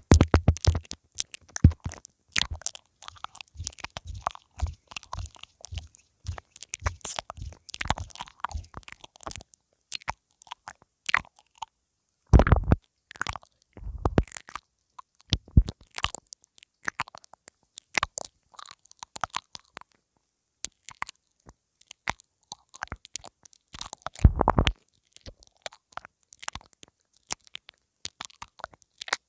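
Mouth nibbling on a pin (lavalier) microphone: a dense, irregular stream of close clicks and crunchy crackles, with a few heavier muffled thumps against the mic about twelve, fourteen and twenty-four seconds in.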